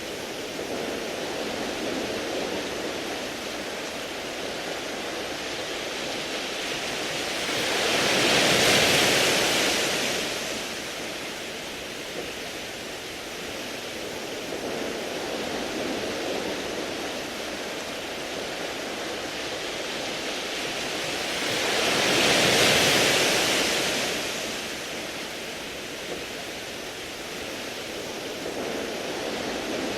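Surf washing onto a beach of smooth round pebbles, a steady rushing wash. Two larger waves swell up and fade away, one about a third of the way in and another about three-quarters in, with smaller swells between them.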